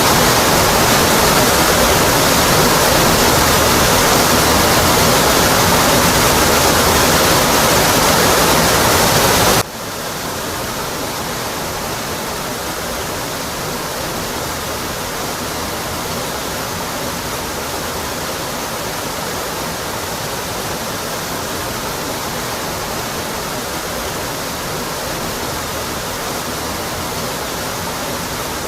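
Rocky Brook Falls: a waterfall's steady, even rushing of water. About ten seconds in it drops suddenly to a quieter, duller rush, which then holds steady.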